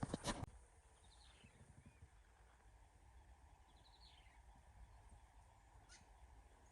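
A few sharp knocks that stop about half a second in, then near silence with a bird giving two faint, quick descending chirp series, about a second in and about four seconds in, and a single click near the end.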